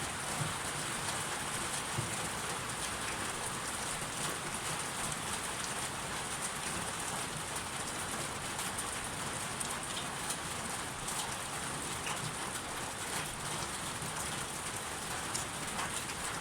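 Steady rain falling, an even hiss with many scattered drops pattering on a surface.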